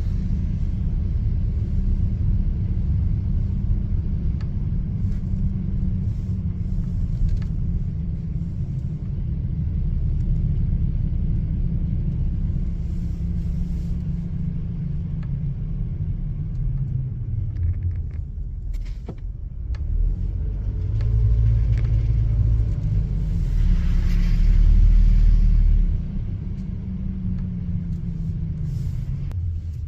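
A car driving on snowy city streets: steady low engine and road rumble, with the engine's pitch rising and falling in the second half, as the car slows and speeds up, and a louder stretch a little past the middle.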